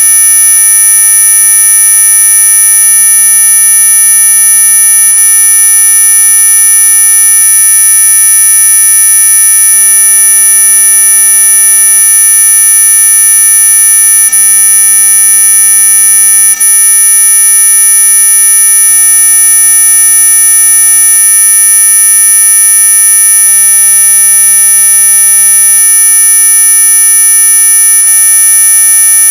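Steady electronic tone, a loud unbroken buzz made of many constant pitches at once, from low up to very high, sold as an anti-mosquito 'ultrasonic' repellent sound. There is a brief dip in level about sixteen seconds in.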